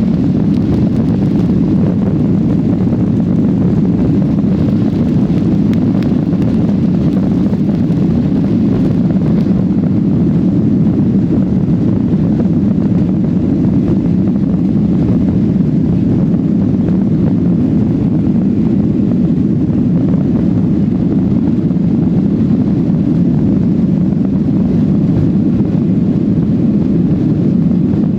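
Jet airliner's engines and rushing air making a steady low rumble, heard from inside the passenger cabin.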